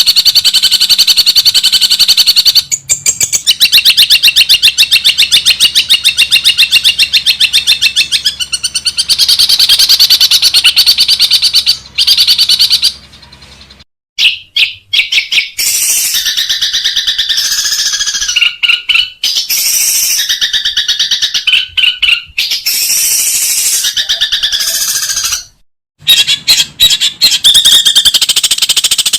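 Long-tailed shrike (cendet) calls from a song-training recording: a loud, fast chatter repeated many times a second, which gives way after a short break to more varied calls, then another brief gap and the fast chatter again near the end.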